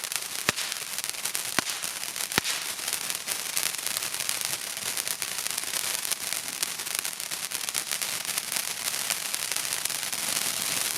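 Crackling fireworks: a dense, rapid crackle of many small pops, with a few louder sharp bangs in the first two or three seconds.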